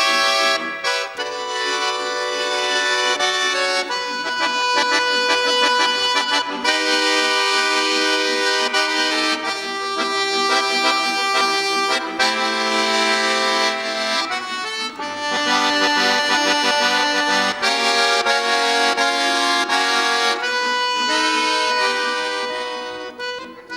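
Bayan (Russian button accordion) playing a lively pop piece solo: held chords with runs of quick notes over them, getting softer near the end.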